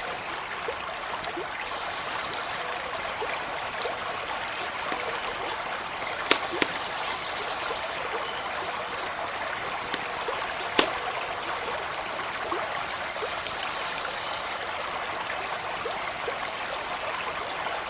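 A stream running steadily over a campfire crackling, with many small sharp pops and two louder snaps about six and eleven seconds in.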